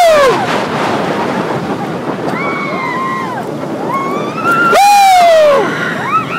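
Roller-coaster rider yelling "woo" over wind rushing past the microphone: two loud cries that fall in pitch, one at the start and one about five seconds in, with softer wavering shouts between them.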